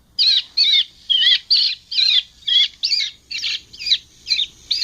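Electronic bird-scaring device playing a recorded fierce, eagle-like bird call through its loudspeaker to frighten berry-eating birds away. It is a loud, fast, even series of sharp, wavering high calls, about three a second.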